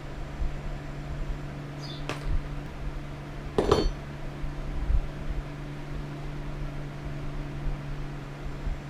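Steady low hum with two sharp knocks, a light one about two seconds in and a louder one just under four seconds in that rings briefly like metal.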